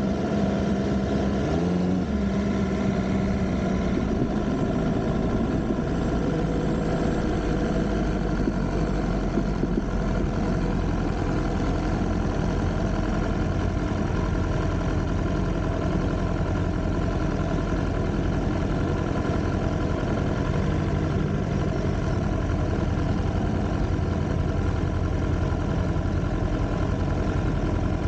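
BMW S1000R inline-four motorcycle engine idling steadily, with a short rise in pitch about two seconds in.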